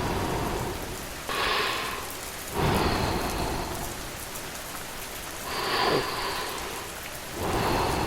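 Steady rainfall, swelling louder and easing off several times, with a low rumble underneath.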